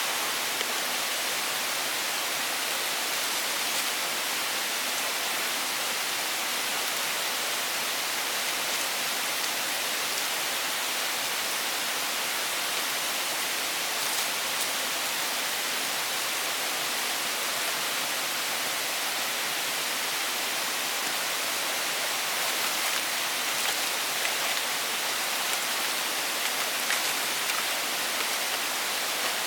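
Steady, even hiss of water, like rain, with no distinct events.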